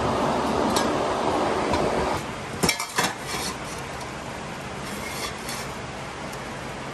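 A steady machine noise cuts off about two seconds in, followed by a few sharp metallic clinks and lighter clatter of stainless steel exhaust pipe sections being handled and set against each other.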